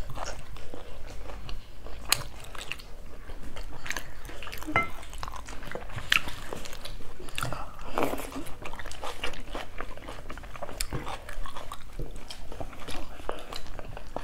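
Close-miked chewing and biting of food, with many short irregular clicks of eating throughout.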